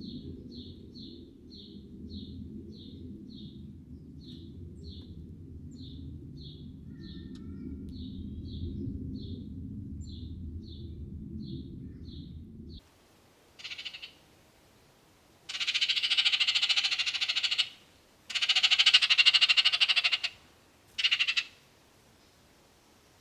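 Small bird giving a rapid series of short high chirps, slowing from about three a second to fewer, over a low rumble. After a cut come four loud buzzy trills, the longest about two seconds each.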